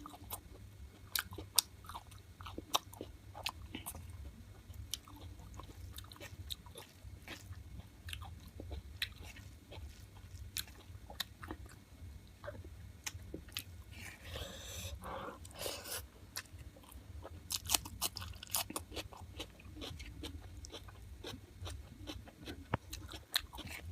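Close-up eating sounds: chicken being bitten and chewed, with many small crunches and mouth clicks. A denser, noisier stretch of chewing about fourteen seconds in.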